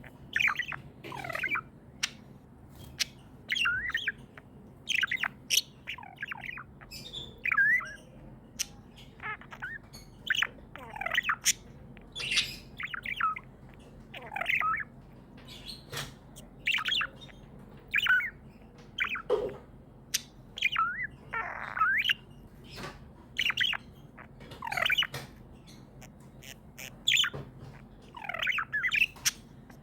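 Pet budgerigars chirping: a steady run of short, sharp chirps, one to several a second, with no long pauses.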